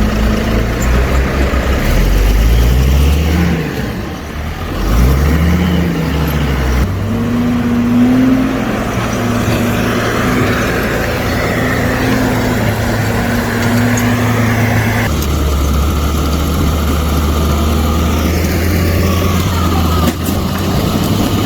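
Diesel engine of a Timberjack 240 forestry skidder working hard, revving up and back down twice in a row, then running at a steady labouring pitch. The engine note changes abruptly a few times.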